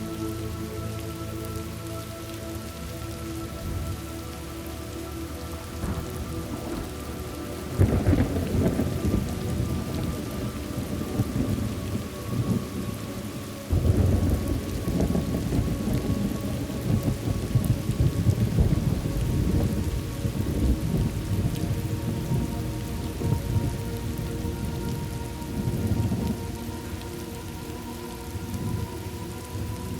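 Thunderstorm: steady rain falling, with thunder rumbling in about eight seconds in and a louder peal breaking at around fourteen seconds, then rolling on in waves.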